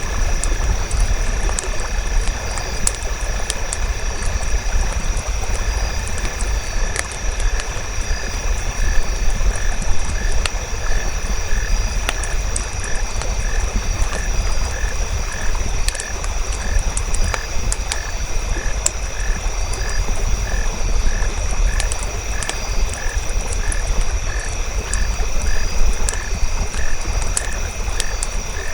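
A frog calling in short, evenly spaced croaks, a little over one a second, from about five seconds in, over a crackling campfire with a low steady rumble and a steady high tone.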